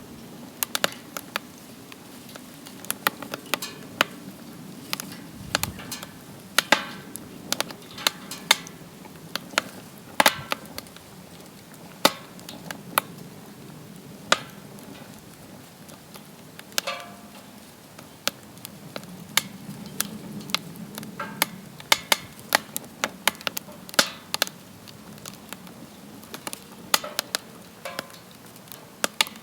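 Wood fire crackling in a DOD Mecha Moe Fire fire pit: sharp, irregular pops and cracks over a low, steady rumble.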